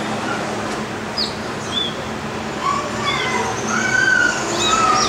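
Several birds calling at once, a busy mix of short chirps and whistled notes, some sliding down in pitch, over a steady background hum.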